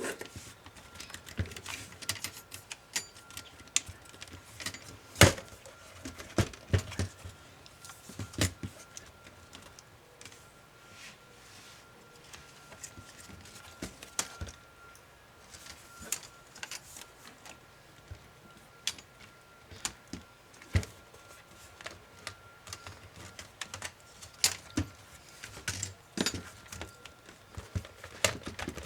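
Irregular clicks and taps of small plastic and metal laptop parts being handled and pried apart during disassembly, some sharper than others, with short quiet gaps between.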